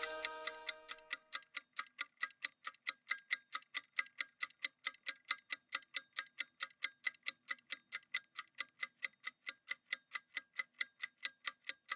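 Quiet ticking of a clock-style timer sound effect: short, even ticks several times a second, steady throughout.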